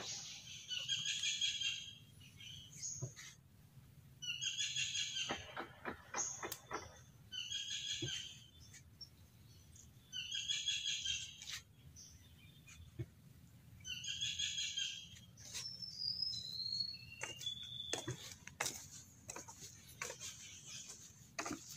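A bird, known locally as tikarol, singing the same short phrase about every three seconds, with a few short falling whistles near the end, over scattered footsteps on the wooden planks of a boardwalk.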